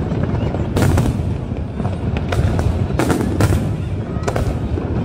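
Aerial fireworks bursting: four sharp bangs over a continuous low rumble of further booms.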